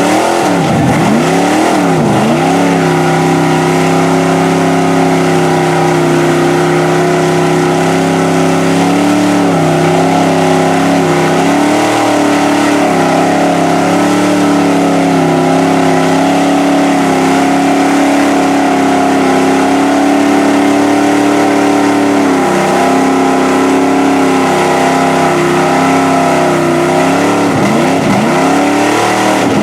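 Mud bog truck's engine held at high revs in a long continuous pull, its pitch sagging and climbing back several times, most clearly near the start and near the end.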